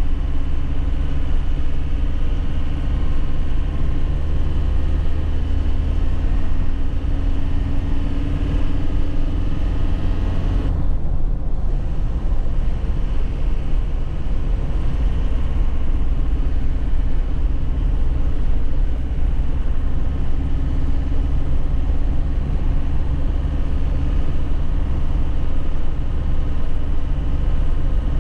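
2001 Nissan Cabstar 106Le light truck's engine running steadily as it drives, heard from the cab. About eleven seconds in the engine sound briefly dips, then runs on at a lower note.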